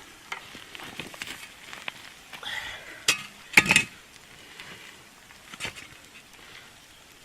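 Metal clinks and knocks from handling a camp oven and its lid, with one louder clank a little past halfway, over faint sizzling from the roast inside.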